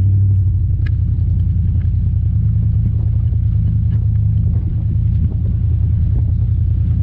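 Pickup truck running steadily along a dirt road, a loud, even low rumble of engine and road noise.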